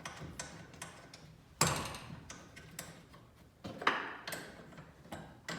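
A few sharp metal clicks and knocks from garage door torsion hardware being handled while the cable drum is set on the torsion tube. The loudest knocks come about one and a half seconds in and again near four seconds.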